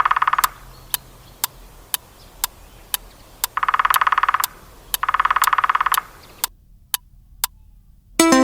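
Woodpecker drumming: three rolls of very fast pecks on wood, each lasting about a second, over a steady tick about twice a second. Music starts near the end.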